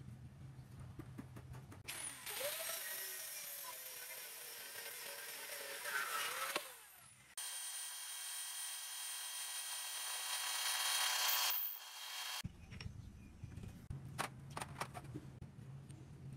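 A power tool running in two spells, a whining hiss and then a steadier, higher whine, with small clicks and handling knocks before and after.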